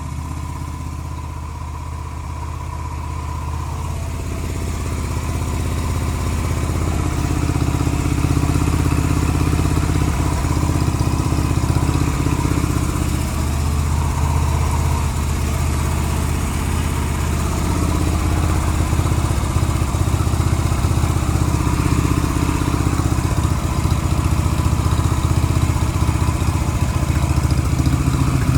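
Yamaha Renaissa's air-cooled 250 cc V-twin engine running at a steady idle, growing louder a few seconds in and then holding even.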